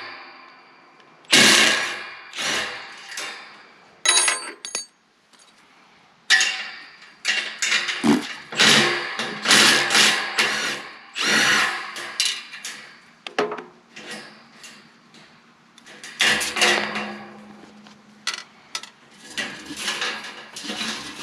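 Handheld power tool run in many short bursts, starting and stopping repeatedly, while exhaust bolts are being worked loose.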